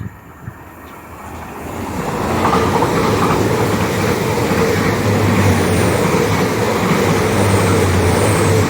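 Nine-coach Hitachi IET (Intercity Express Train) passing close by at speed. Its noise builds over the first two seconds or so, then holds as a loud, steady rush with a low hum and a steady tone.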